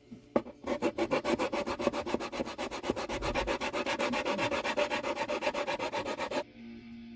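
Hand sanding on wood: fast, even back-and-forth strokes, about seven a second, that stop suddenly near the end.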